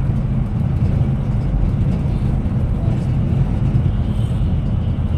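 Steady low rumble of a moving Scania Metrolink multi-axle coach: engine and road noise at an even level.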